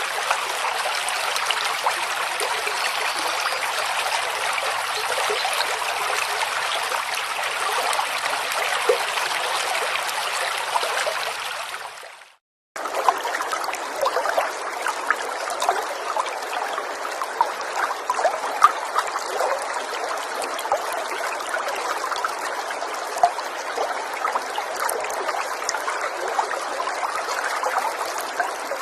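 A river or stream of running water, a steady rushing that fades out about twelve seconds in. After a half-second of silence, a different stretch of flowing water starts abruptly, brighter and trickling, with many small splashes.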